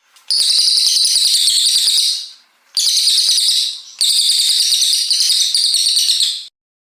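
Brown cililin songbird singing long, high, rapid strings of whistled notes in three bursts: one of about two seconds, a short one near the middle, and a longer one of about two and a half seconds that stops abruptly.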